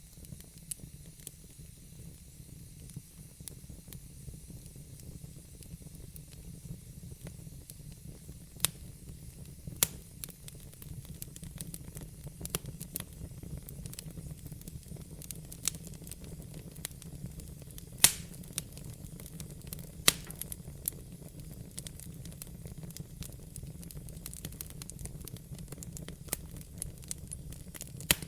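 Fire burning in a fireplace: a steady low rumble and hiss with scattered crackles and several sharp pops, the loudest about two-thirds of the way through.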